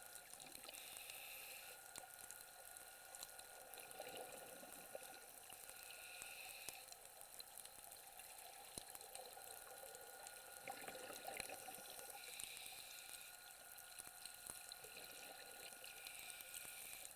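Faint underwater ambience: a constant fine crackle with a hiss that swells for about a second roughly every five seconds, in the rhythm of a scuba diver's breathing.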